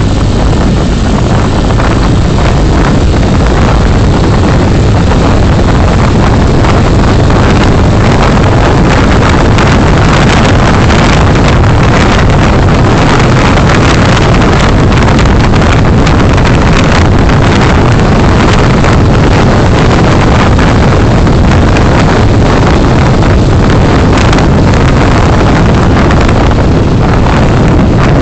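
Very loud, steady rumble and hiss of a moving car's wind and road noise, as picked up by a dashcam microphone, with scattered crackles.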